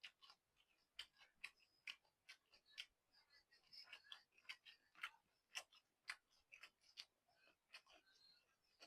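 A person chewing a mouthful of noodles and stewed beef, close to the microphone: soft, irregular wet mouth clicks and smacks, about one to two a second.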